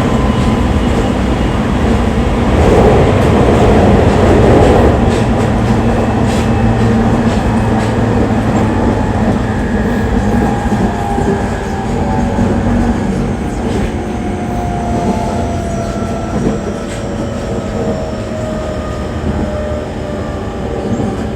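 Jōban Line electric train running, heard from inside the carriage, with steady wheel and running noise. From the middle on, the motor whine falls slowly in pitch as the train slows toward its next stop.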